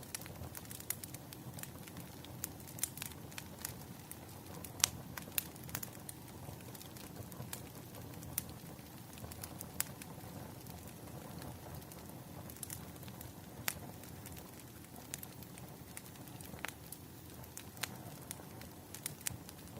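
Wood fire crackling: irregular sharp pops and snaps of burning logs over a low, steady rumble of flame.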